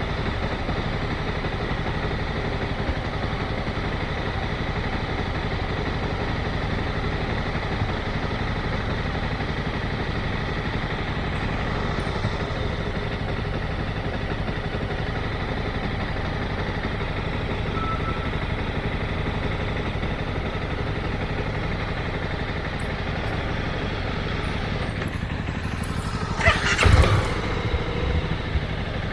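Motorcycle engine running steadily. Near the end comes a short, louder rush of noise with a thump.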